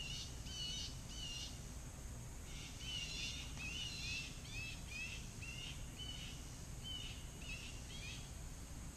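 A bird calling in a series of short, repeated chirps, about two or three a second, with a short pause about two seconds in, over a steady low outdoor background noise.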